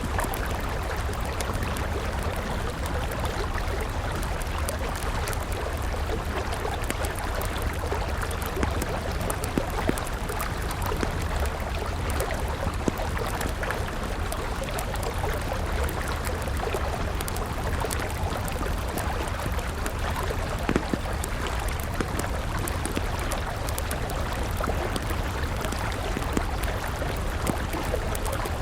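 A river flowing steadily with a low rumble, while a wood campfire crackles and pops throughout, with a few sharper pops.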